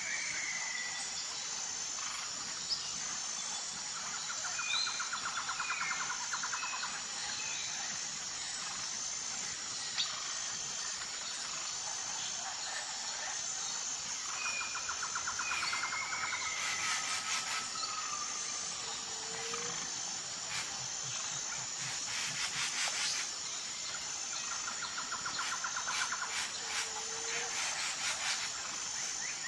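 Outdoor nature sound: a steady, high, fast-pulsing insect trill throughout, with bird chirps and rattling trills that come and go several times.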